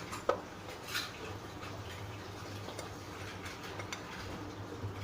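Light clicks and taps of small bowls and a spoon as ground spices are tipped into a grinder jar, a few sharper clicks near the start, over a faint steady low hum.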